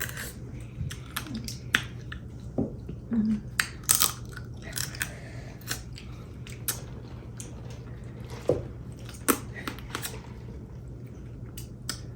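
People chewing and eating seafood boil by hand: irregular wet smacks, clicks and crackles of food and shells, over a steady low hum.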